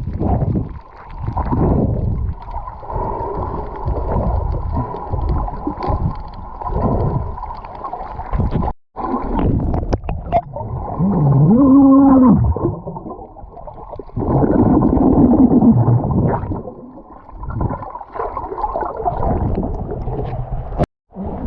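Muffled water sloshing and gurgling. About halfway through, a muffled call rises and then falls in pitch, and a second pitched call follows a few seconds later. The sound cuts out briefly twice.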